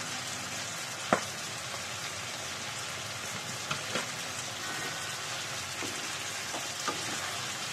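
Diced chicken and vegetables sizzling steadily in a frying pan, just dusted with flour. A few sharp knocks come as the mixture is stirred, the loudest about a second in.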